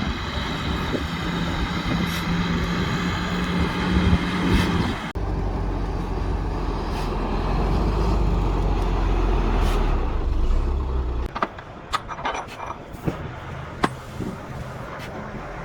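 Heavy earthmoving machinery working, its diesel engines running under load. The sound changes abruptly twice: first an engine with a steady whine over it, then a deep steady rumble, then a quieter stretch with scattered sharp clanks and knocks.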